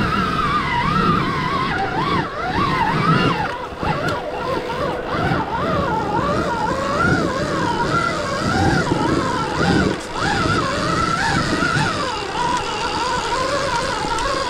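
Stark Varg electric dirt bike's motor whining, its pitch rising and falling constantly with the throttle, over a rough, steady rumble from the bike on off-road ground.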